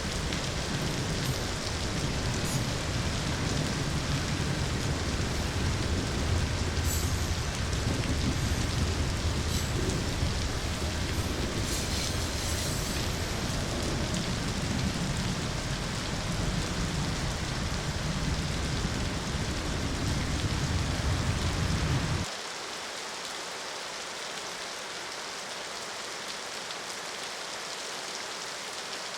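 Steady heavy rain with a deep low rumble underneath; the rumble cuts off abruptly about three-quarters of the way through, leaving the rain alone.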